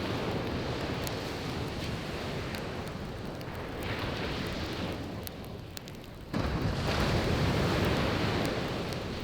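Waves washing onto the beach with a steady rush, dipping then surging back abruptly about two-thirds of the way through, while a wood campfire crackles with scattered sharp pops.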